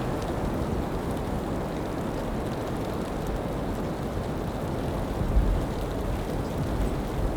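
Snowstorm wind buffeting the microphone: a steady low rushing rumble, with a stronger gust about five seconds in.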